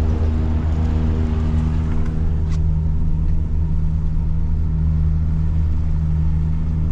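Truck engine and road noise heard from inside the cab: a steady low drone, with the higher hiss easing off about two and a half seconds in.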